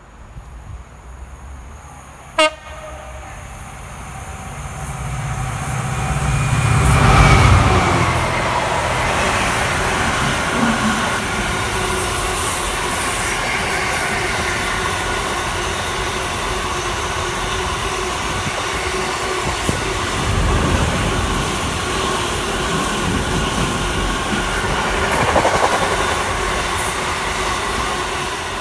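GB Railfreight Class 66 diesel locomotive 66721, with its two-stroke V12 engine, approaching and passing at speed with an intermodal container train. The engine's low rumble builds to its loudest about seven seconds in, followed by the long steady rumble and clatter of the loaded container flat wagons rolling by.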